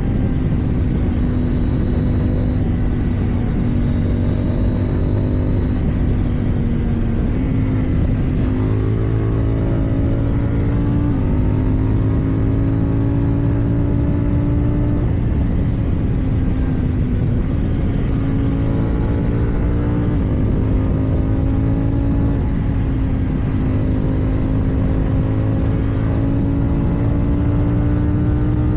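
KTM 790 Duke's parallel-twin engine through an Akrapovič exhaust, pulling on the road. Its pitch climbs and dips with throttle, with several abrupt steps as gears change, over a steady rush of wind.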